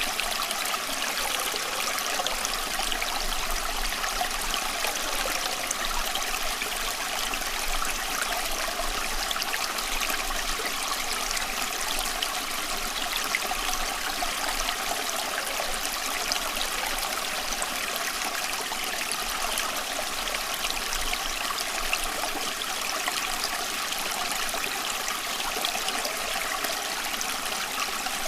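Running water from a stream, flowing and trickling steadily without change.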